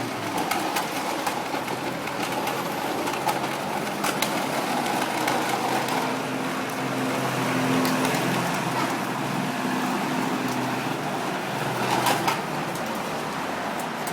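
A vehicle engine running steadily, its low hum joined by a higher held tone for a few seconds midway. There are a couple of sharp knocks near the end.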